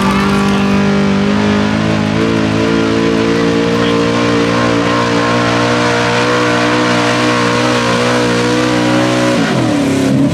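Pulling truck's engine held at full throttle at a steady high pitch under load during a pull, with a rushing noise over it, then dropping in pitch near the end as the throttle comes off.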